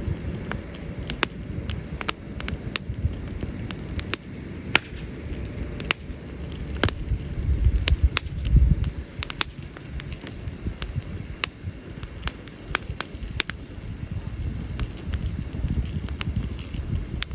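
Wood campfire crackling, with irregular sharp pops and snaps over a low rumble that swells about eight seconds in.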